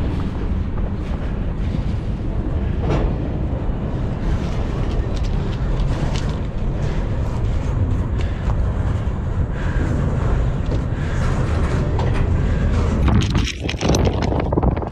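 Wind buffeting the microphone over the steady rumble of a slow-moving freight train rolling past close by, with scattered faint knocks from the cars.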